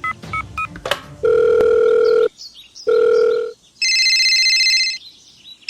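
Telephone sound effects: a few quick keypad dialling beeps, then two long steady ringing tones, then a brighter high-pitched electronic ring near the end.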